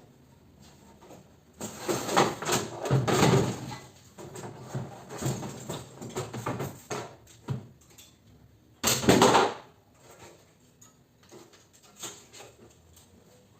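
Irregular knocks and rattling clatter from dismantling ducted air conditioner units for scrap, with a loud half-second clatter about nine seconds in and a few quieter knocks after it.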